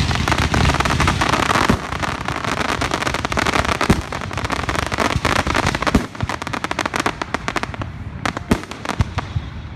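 Fireworks going off: a dense, rapid crackling barrage of bangs that thins after about six seconds into scattered separate pops.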